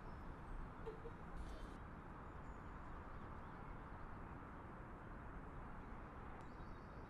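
Steady outdoor background noise with a low rumble, and a few faint high bird chirps.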